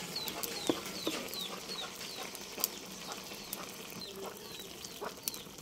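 A bird chirping over and over, short high falling chirps about twice a second that thin out after about four seconds, with a few faint clicks.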